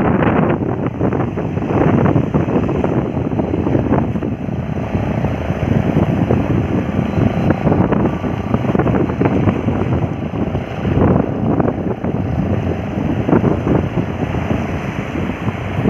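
Heavy wind buffeting the microphone over rushing, splashing water from a boat under way, in irregular gusts.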